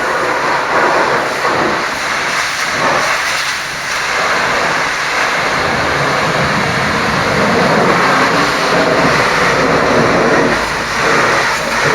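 High-pressure washer jet spraying water onto a truck, a loud steady hiss that swells and fades as the spray moves over the surface.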